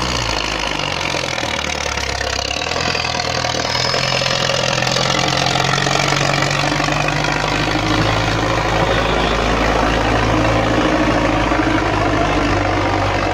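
Diesel tractor engine running steadily, with a continuous low engine note.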